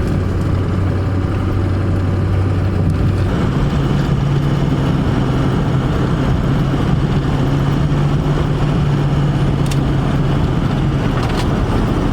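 A motor vehicle's engine running steadily with a rumble of noise. Its note steps up a little about three seconds in and drops back near the end.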